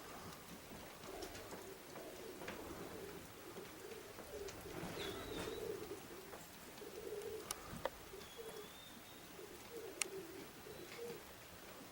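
Domestic pigeons cooing softly and repeatedly, with a couple of short faint high chirps in the middle.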